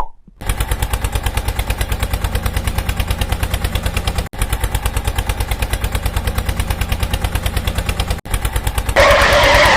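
Mini tractor's small engine running with fast, even chugging, about a dozen beats a second, cutting out for an instant twice. A louder hissing noise joins near the end.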